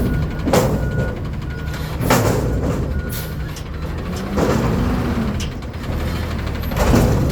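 Garbage truck engine running steadily, with a reversing alarm beeping faintly and intermittently. Four loud bursts of noise break through, about every two seconds.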